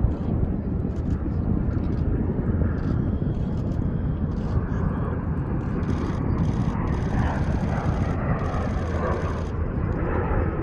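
Steady rumble of the Snowbirds' CT-114 Tutor jets in flight, with a faint whine that shifts in pitch in the second half.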